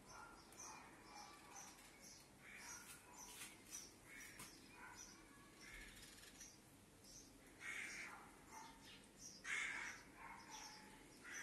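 Faint birds chirping over quiet room tone, short calls repeating about every half second, with a couple of louder calls in the second half.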